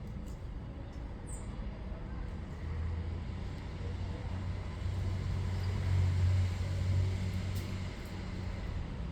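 Low engine rumble of a passing motor vehicle, building from about three seconds in, loudest around six seconds, then fading away.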